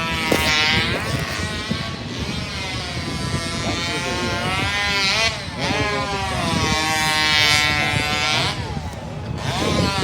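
Engine-driven saw cutting discs off a log, its engine pitch sagging and recovering repeatedly as it works through the wood.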